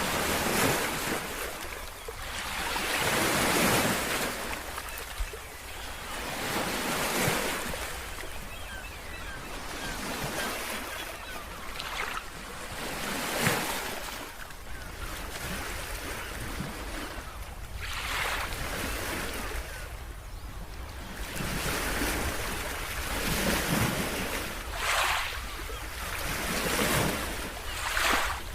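Ocean surf: waves breaking and washing up one after another, a rushing swell every two to four seconds over a steady low rumble.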